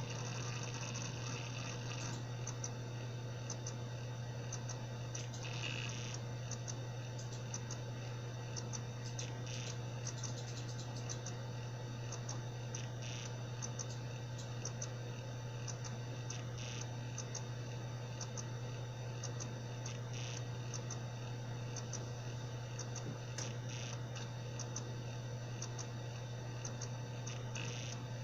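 Seagate Barracuda 7200.7 80 GB hard drive (ST380819AS) spinning with a steady low hum, broken by irregular clicks and ticks from its heads: the abnormal 'bad sound' of a faulty drive.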